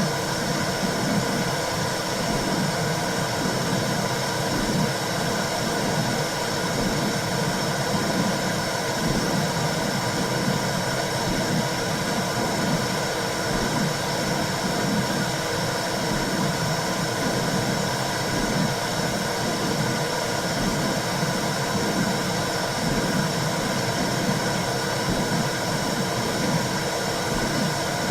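Womb sound for soothing a baby: a steady, low, fluttering whoosh under an even hiss, unchanging throughout.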